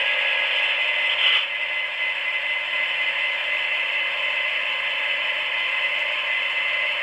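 QSI sound decoders in Atlas GP40-2 model diesel locomotives playing a steady diesel engine sound through their small speakers as the engines creep along at speed step 1, with a brief louder moment just over a second in.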